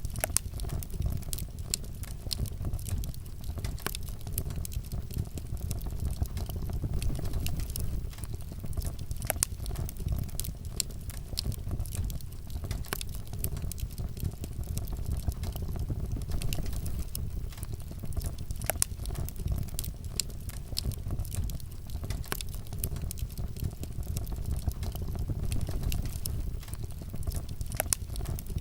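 Fire crackling in a fireplace: a steady low rumble of flames with frequent, irregular sharp pops and snaps.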